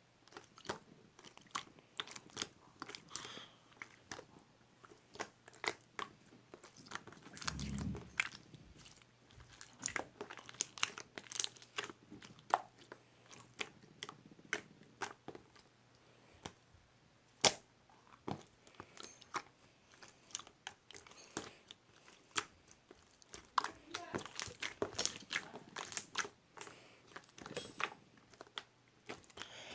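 Irregular sharp clicks and crackles, a few a second, with a short low thump about eight seconds in.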